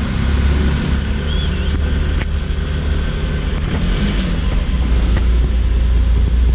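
Jaguar XJ220's twin-turbocharged V6 running at low revs as the car moves off slowly: a deep, steady rumble.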